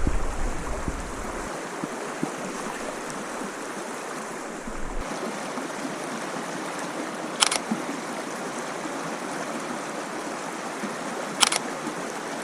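Steady rush of flowing river water, with a low rumble that stops a second or so in. Two brief sharp clicks come about four seconds apart, one past the middle and one near the end.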